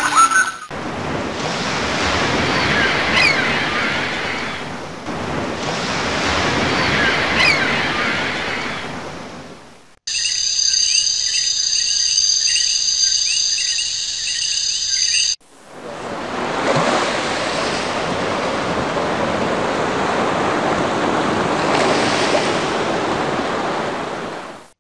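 Ocean surf sound effect, waves swelling and falling back, in two long stretches. Between them, for about five seconds, a different high, fluttering sound effect made of several steady tones cuts in and ends abruptly.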